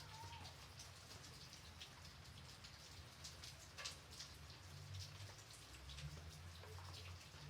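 Light rain: a soft steady hiss with individual raindrops tapping at irregular intervals, several a second.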